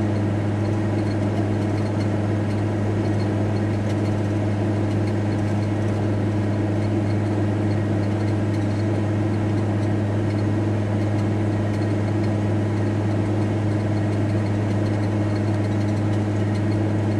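VW T4 Transporter van's engine running at a steady speed, heard from inside the cab as an even, unchanging low hum.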